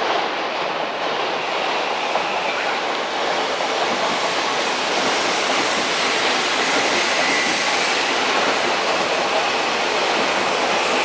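Odakyu 4000 series electric train running on the rails, a steady rumble and wheel clatter that grows slowly louder.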